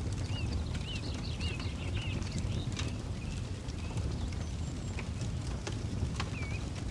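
Campfire crackling with scattered sharp pops over a steady low rumble. A bird repeats a short chirp about twice a second, four times near the start and again several times near the end.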